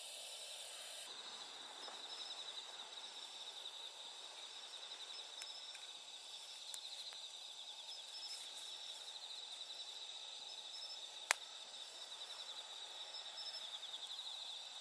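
Night insects trilling steadily in a high, fast-pulsing chorus. A few faint clicks and one sharp, loud pop about eleven seconds in, typical of a crackling wood fire.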